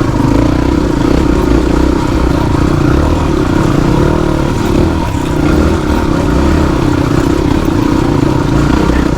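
Motorcycle engine running steadily as it is ridden off-road.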